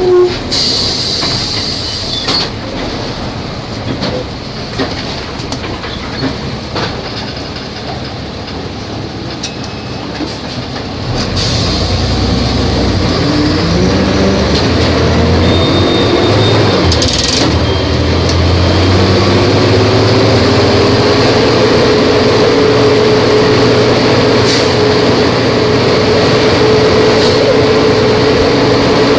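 Volvo B270F bus engine, running quieter for the first third, then picking up and accelerating with rising pitch. Around two-thirds of the way in the pitch dips briefly, then it rises again and levels off into a steady drone.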